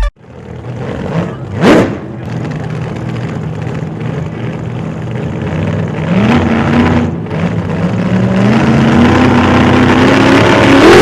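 Hemi V8 of a lifted 2015 Ram 1500 with JBA long-tube headers and Carven Competitor mufflers, exhaust note under acceleration. There is a brief loud swell about two seconds in. The engine note then climbs in pitch and loudness toward the end.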